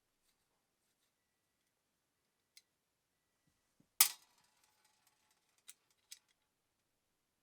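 A few sharp clicks in an otherwise quiet room: a faint one, then a loud one about four seconds in with a brief ringing tail, then two smaller ones.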